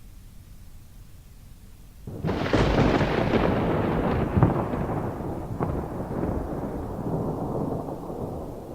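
A thunderclap: a sudden sharp crack about two seconds in, several crackling snaps over the next few seconds, then a long rumble slowly rolling away.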